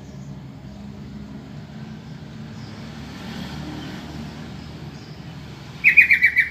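A low steady background rumble like distant traffic, then near the end a yellow-vented bulbul gives a loud, rapid burst of about five bright chattering notes.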